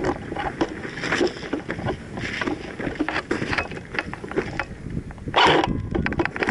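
Low rumble of wind on the microphone with scattered knocks and clicks, and a louder rush of noise about five and a half seconds in.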